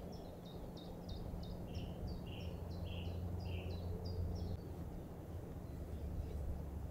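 A small songbird singing a run of short, high, repeated notes, about three a second, some answered by a lower note, stopping about four and a half seconds in, over a steady low rumble.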